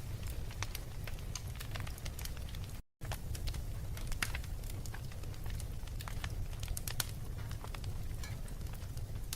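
Wood fire in a fireplace crackling, with irregular sharp pops over a steady low rumble of the burning. The sound cuts out completely for an instant about three seconds in.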